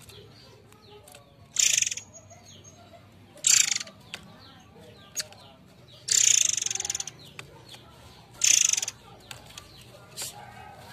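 Forktail (murai air) giving shrill, rasping high calls in short separate bursts, about five of them, the longest about six seconds in.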